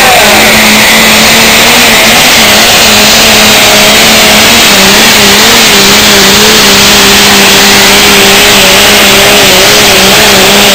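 High-horsepower turbocharged diesel pulling tractor engine running flat out under load during a pull. It is very loud and holds a steady pitch that wavers only slightly.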